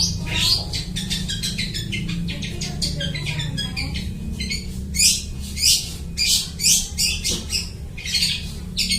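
Long-tailed shrike singing a fast, chattering song of rapid high notes copied from other birds' calls, with several louder harsh notes in the second half. A steady low hum runs underneath.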